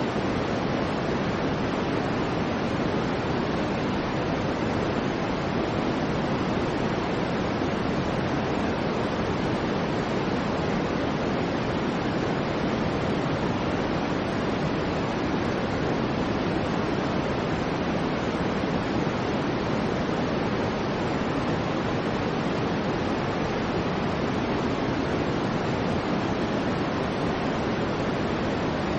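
Soft white noise for infant sleep: a steady, unchanging hiss weighted toward the low end, more rumble than sharp hiss.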